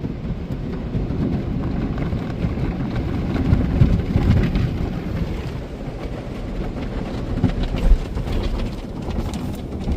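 Automatic car wash wraparound brushes spinning and scrubbing against the car body, heard from inside the cabin: a steady low rumble with water spray and heavier thumps about four seconds in and again near eight seconds.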